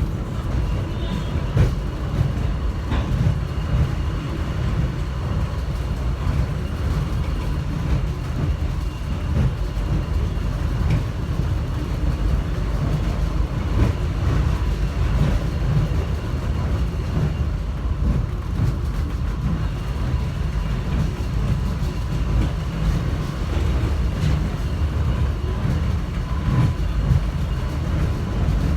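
Airport subway people-mover car heard from inside the cabin while running between stations: a steady low rumble with faint steady whines and occasional light clicks and rattles.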